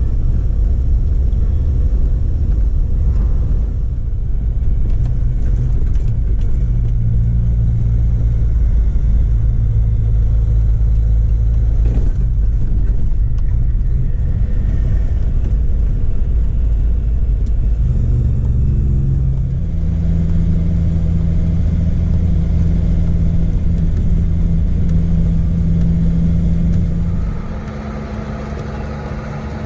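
Truck engine running steadily under way, a low drone whose pitch steps up about two-thirds of the way through, then drops and turns quieter near the end.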